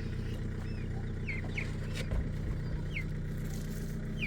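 Birds chirping: repeated short, high chirps that fall in pitch, over a steady low mechanical hum.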